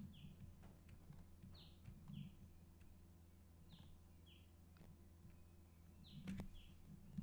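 Near silence: faint room tone with a steady low hum, and a bird in the background giving a short, high two-note chirp about every two seconds. A few faint clicks, the clearest about six seconds in.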